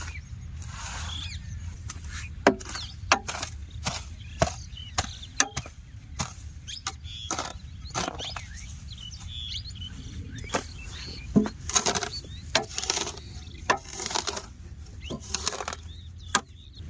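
Irregular sharp knocks and clatters, a dozen or more spread unevenly, over a steady low hum.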